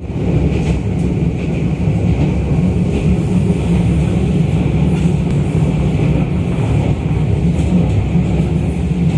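Running noise inside an Izukyu 2100 series electric train car in motion: a steady low rumble of wheels on rail, with a faint high hum above it.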